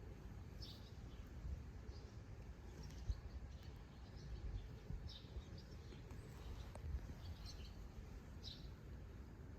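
Faint bird chirps, short and scattered, over a low steady background rumble, with a couple of light clicks, one about three seconds in and one about seven seconds in.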